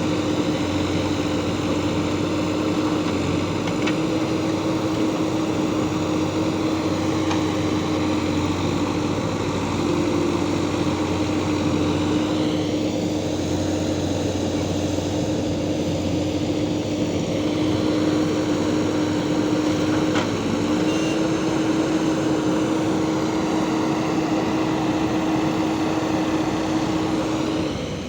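Backhoe loader's diesel engine running steadily at high revs, its pitch holding almost constant with slight shifts.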